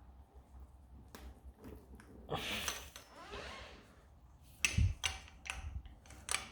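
Handling noises from tyre puncture-repair tools at a tubeless car tyre: a short scraping rustle about two seconds in, then a run of sharp clicks and knocks near the end.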